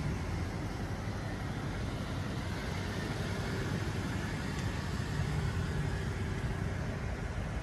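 Vehicle engine idling steadily, a low hum under an even background hiss.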